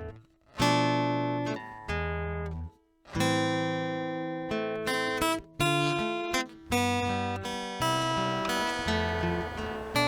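Background music on acoustic guitar: plucked chords ringing out and fading, one after another, with short breaks between them.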